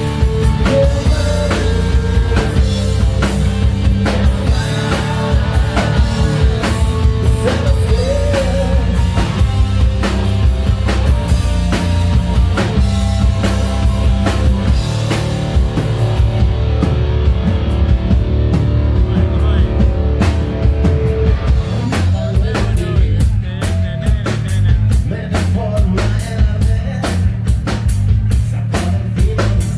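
Hard rock band playing live: drum kit, bass and electric guitars. Partway through, the cymbals drop out for a few seconds, then the drums come back in with a steady, even beat.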